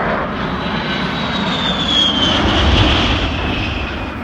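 A-10 Warthog jet flying past, its two TF34 turbofan engines giving a rushing roar with a high whine that drops in pitch as it goes by, loudest about two to three seconds in.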